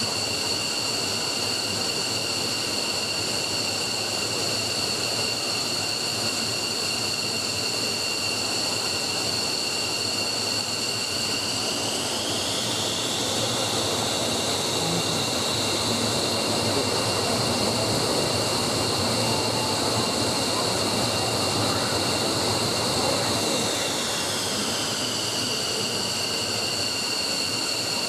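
F-15's Pratt & Whitney F100 turbofan engines running on a ground test run: a steady high whine over a rushing roar that rises in pitch about twelve seconds in as the throttle is advanced, holds, then winds back down near the end.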